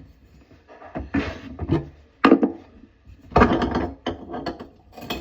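Irregular knocks, clicks and scraping clatter of tools and fittings being handled during a faucet installation. The loudest bursts come about two and a half seconds in and again a little past three seconds.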